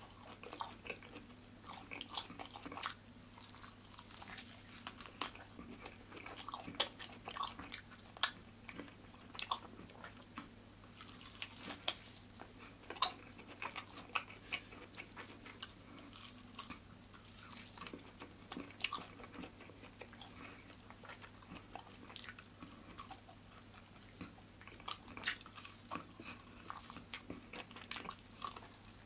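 Close-up eating sounds of a person biting and chewing cooked meat off the bone: irregular wet smacks, clicks and crunchy crackles of mouth and teeth, over a faint steady low hum.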